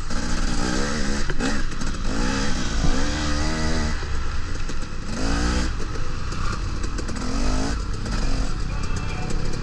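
Dirt bike engine running under throttle, revving up several times in rising sweeps and easing off between them.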